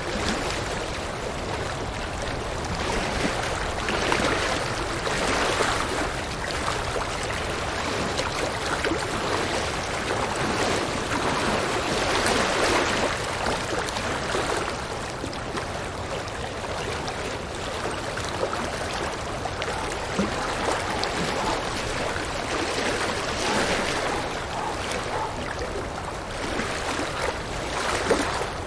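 River water flowing and rushing over rocks, a steady splashing that swells and eases every few seconds.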